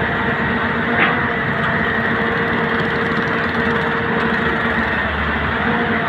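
Heavy diesel engine running steadily, with a single sharp knock about a second in.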